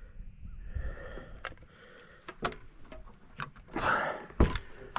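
Scattered light clicks and taps of hands working on a small balsa RC airplane's rudder linkage, where an easy connector had pulled loose. There is a short breathy rustle about four seconds in, over a low wind rumble on the microphone.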